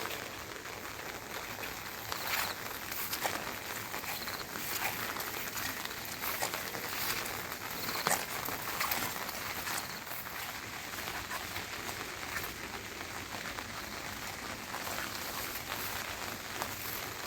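Steady rain with scattered taps and drips, and a couple of louder clicks.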